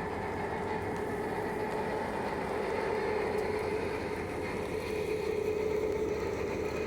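GM G22CU diesel locomotive running steadily: a constant mid-pitched tone over a low rumble.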